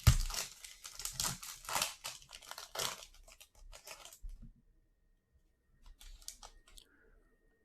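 Plastic wrapper of a 2020 Panini Select football card pack being torn open and crinkled: a quick run of crackly rustles for about four seconds, then a pause and a brief, fainter rustle near the end.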